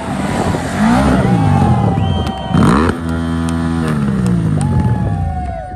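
Adventure motorcycle engines revving at low speed, their pitch rising and falling. About two and a half seconds in there is a short, loud burst, then one engine runs on steadily with its pitch slowly falling.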